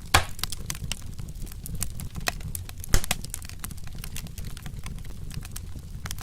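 Wood fire crackling: dense small crackles over a low steady rumble, with a louder pop just after the start and another about three seconds in.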